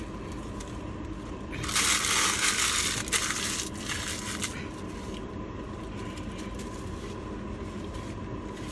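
Crunchy fast food being bitten and chewed close to the microphone, a loud crunching for about three seconds starting near two seconds in. A faint steady high tone hums underneath.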